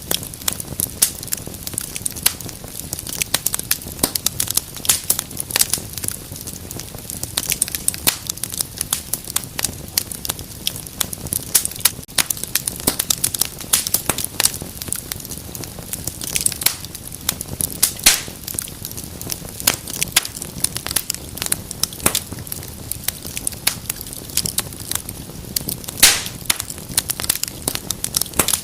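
Wood fire in a fireplace crackling, with dense irregular snaps and pops over a low steady hiss of the flames; a couple of louder pops stand out about two thirds of the way through and near the end.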